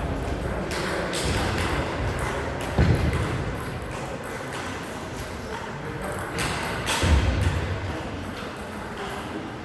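Table tennis rally: sharp clicks of the celluloid ball off rackets and table at irregular intervals, with a couple of heavier low thuds.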